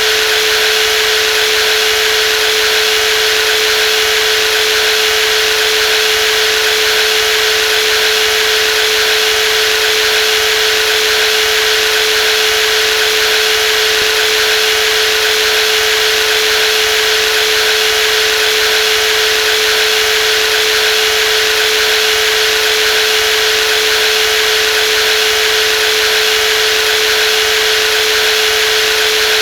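Brushless jigsaw motor running steadily at constant speed, a continuous whine with a strong steady tone over a hiss.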